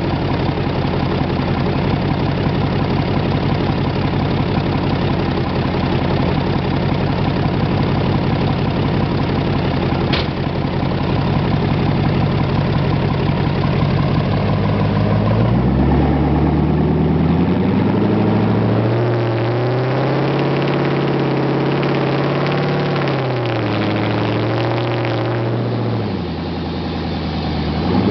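2006 Jeep Grand Cherokee SRT-8's 6.1-litre Hemi V8 running with no mufflers or resonators. It idles steadily, then about halfway through it revs up and holds a higher rev for several seconds before dropping back to idle near the end.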